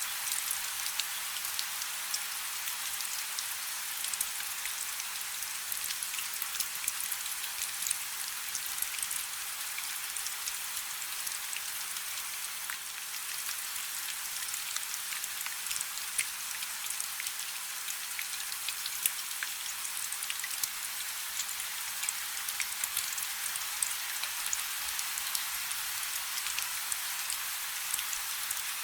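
Steady rain falling on a river's surface, a dense hiss of many small drop ticks with no low rumble.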